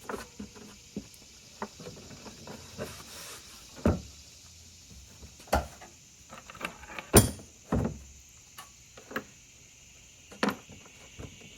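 Strut coil spring compressor being handled: scattered knocks, clicks and clunks of its parts, the loudest a sharp clack about seven seconds in.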